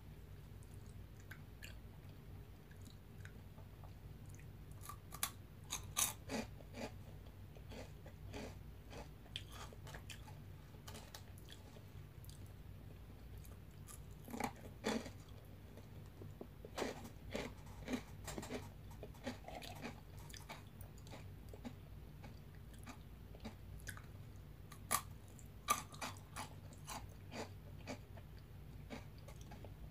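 Veggie straws being bitten and chewed close to the microphone: crisp crunching in three spells, about five seconds in, around the middle and near the end, with quieter chewing between. A steady low hum sits underneath.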